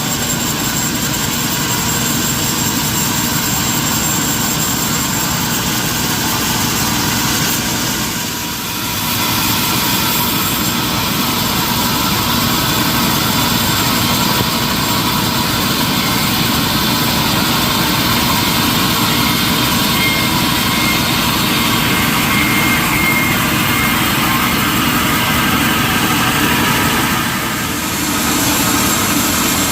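Industrial sawmill machinery running steadily, loud and continuous, with two brief dips in level: one about eight seconds in and one near the end.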